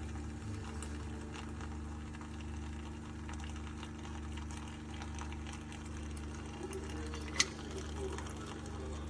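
Keurig K-Supreme Plus pod coffee maker brewing: its water pump hums steadily with a slow low pulse while coffee pours into the cup. A single sharp click about seven seconds in.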